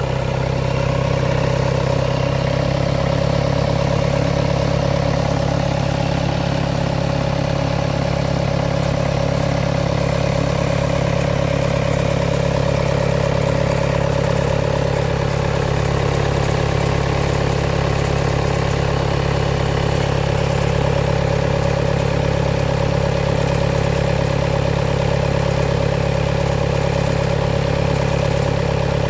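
2018 VW Tiguan's 2.0 TDI four-cylinder turbodiesel idling steadily from a cold start, with an unwanted extra noise that the owner is chasing. Faint high-pitched ticking comes and goes from about nine seconds in.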